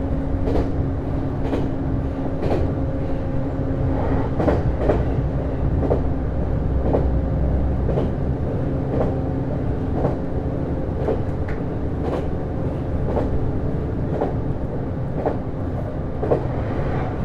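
JR East HB-E210 series hybrid railcar running along the line, heard from inside the car. A steady rumble and hum carry a held tone that briefly drops out about two-thirds of the way through, and wheels click over rail joints every second or so.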